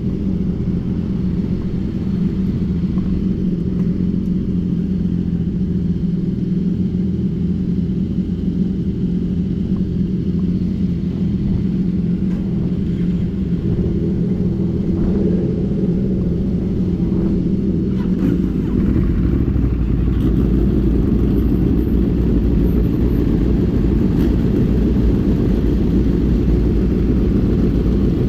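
Wind buffeting a microphone on a moving vehicle, a loud, steady low rumble with road and engine noise beneath it. The lowest rumble gets heavier about nineteen seconds in, as if speed picks up.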